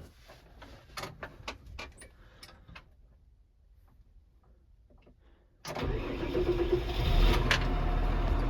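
A few light clicks and knocks, then about two-thirds of the way through a tractor engine starts up abruptly and runs steadily with a low rumble.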